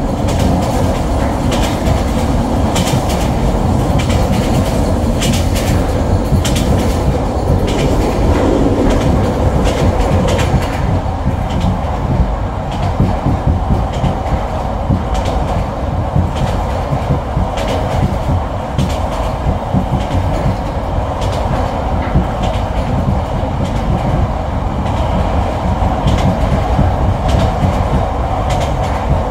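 Vietnamese sleeper train running along the line, heard from inside the carriage: a steady, loud rumble of the wheels on the rails with frequent irregular clicks and clacks from the track.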